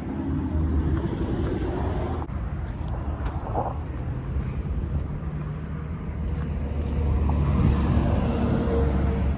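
A car engine running steadily at idle, with a low even hum that grows louder about seven seconds in.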